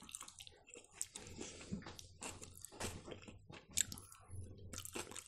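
A person chewing and eating with soft, wet mouth smacks and clicks, many small quiet ones throughout.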